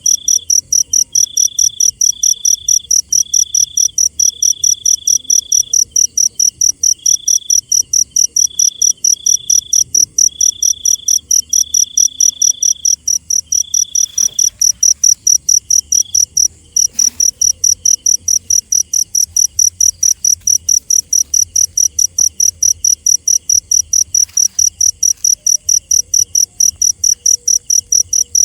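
Cricket chirping steadily in a fast, even rhythm of about four high-pitched chirps a second. A second, lower-pitched insect trills in broken bouts through the first half, then grows faint.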